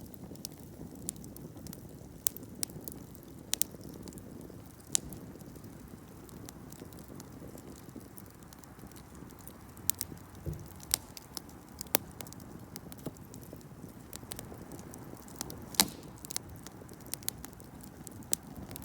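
Wood campfire burning, with sharp crackles and pops at irregular intervals over a steady low rush. One louder pop comes near the end.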